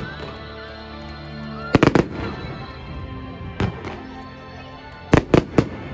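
Fireworks bursting with sharp bangs: three in quick succession about two seconds in, a single one past the middle, and three more near the end, over background music.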